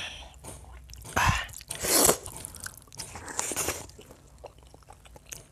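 Chewing and wet mouth noises from eating rice mixed with chicken curry by hand, irregular, with louder bursts about one and two seconds in.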